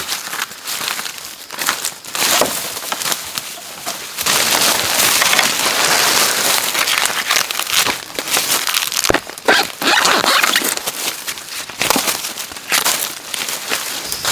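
Dry plant material rustling and crackling, with sharp snaps here and there.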